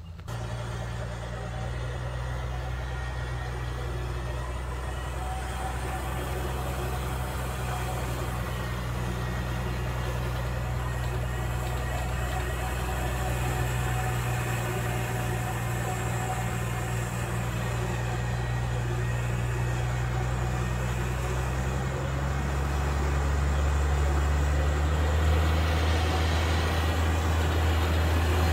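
A motor vehicle's engine running steadily with a low hum. Its note drops and grows louder about three-quarters of the way through, and shifts again shortly after.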